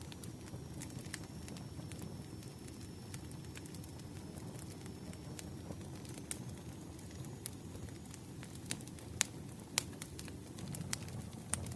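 Campfire burning: a steady low rumble of flame with scattered sharp crackles and pops from the burning wood, two louder pops about nine and ten seconds in.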